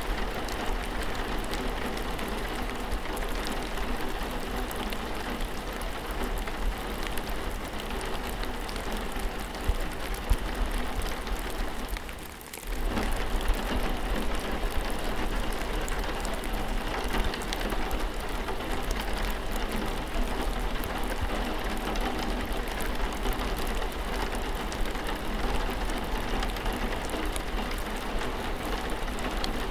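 Steady rain, a dense even patter of drops with a low rumble underneath. It dips briefly about twelve seconds in, then comes back at the same level.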